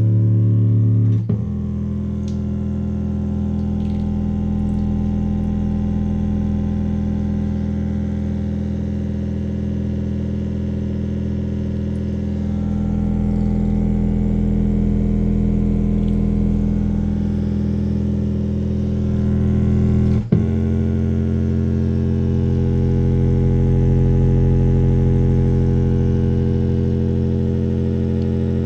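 Portable Bluetooth speaker playing long, held synthesizer bass notes, loud and steady, at a low-frequency bass test. The note changes about a second in and again about twenty seconds in.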